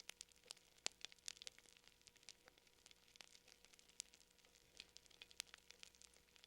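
Fire crackling: irregular sharp pops and snaps, several a second, a few louder than the rest, over a faint hiss.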